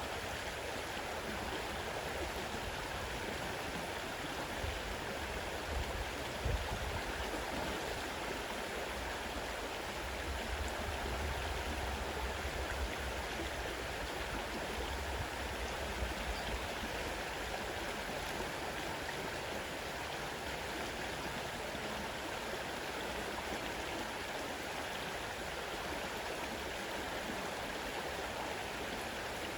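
Fast-running river water rushing steadily over its bed, with a few brief low rumbles.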